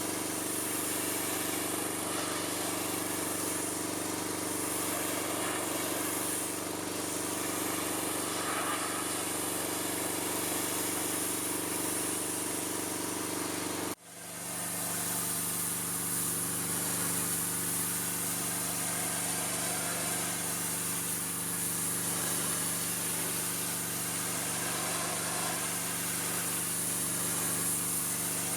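Pressure washer running: a steady motor drone under the hiss of the water spray. It breaks off for an instant about halfway through and comes straight back.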